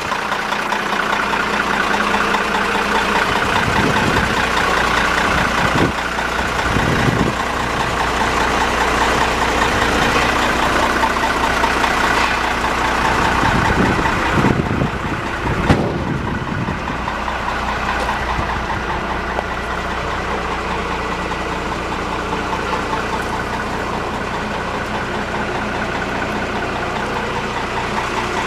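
1990 M931A2 military 5-ton tractor's Cummins 6CTA8.3 turbo-diesel running at a steady idle, with a few brief low swells and one short click.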